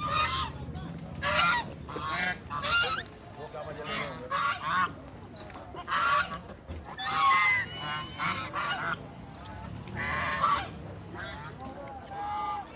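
A flock of ducks or geese honking and quacking over and over, many short harsh calls overlapping, while they are being fed bread.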